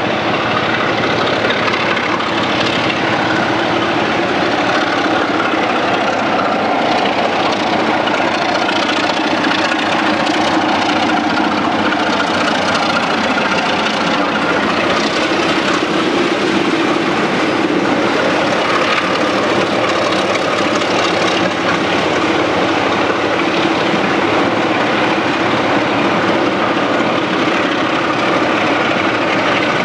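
Passenger train of coaches running past, a steady, even rumble with no distinct beats or sudden sounds.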